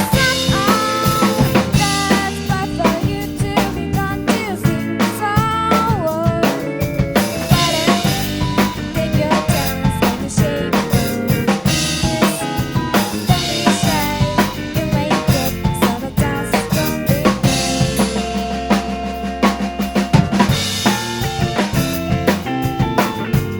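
Drum kit played along to a recorded Shibuya-kei pop song: kick, snare and rimshot strokes over the track's band backing and melody.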